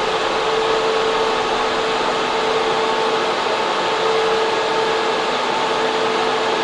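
Server room cooling fans and air conditioning running: a loud, steady rush of air with a constant hum on top.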